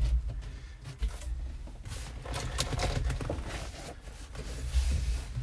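Flexible HVAC duct hose being twisted and pushed into place behind a truck dashboard: irregular rustling and scraping with dull bumps.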